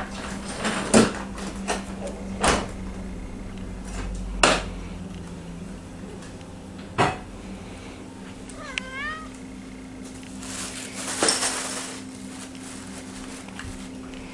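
A cat playing with a toy: several sharp knocks and clatters of the toy in the first seven seconds, a short meow about two-thirds of the way through, then a brief rustling swish.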